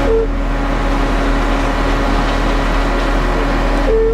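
Concrete mixer truck running steadily with its mixing drum turning and rattling; a drum rattling like this means the load is almost out. A short beep sounds just after the start and again near the end.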